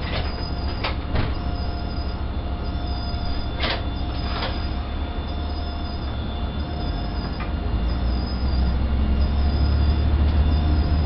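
Diesel railcar's engine running, steady at first and then growing louder from about eight seconds in as the train pulls away. Several sharp clicks sound in the first half.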